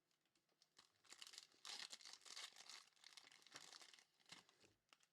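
Foil trading-card pack wrapper being torn open and crinkled, in irregular crackly bursts starting about a second in and stopping shortly before the end.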